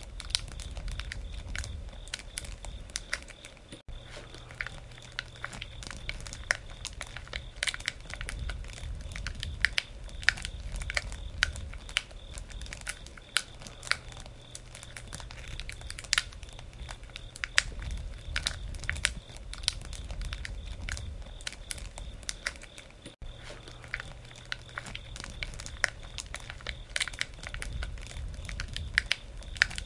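Campfire of burning wood crackling and popping irregularly over a low steady rumble of flames. The sound breaks off for an instant twice.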